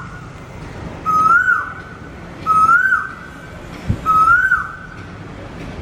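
Asian koel calling: three clear whistled notes, each rising in pitch and then dropping away, about a second and a half apart.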